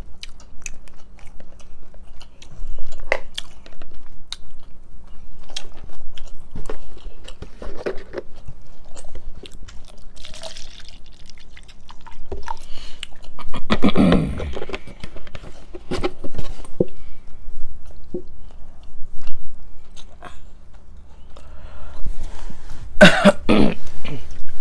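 Close-miked chewing and eating sounds, with many small clicks and taps. A louder rushing stretch comes about 14 seconds in, and a couple of loud short bursts come near the end.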